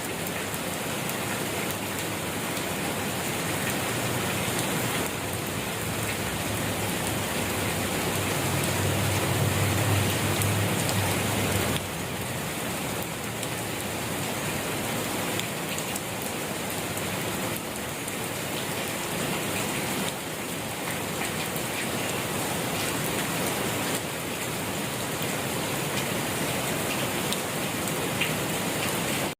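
Steady rain falling, a dense even patter of drops. A low rumble swells and fades in the first half.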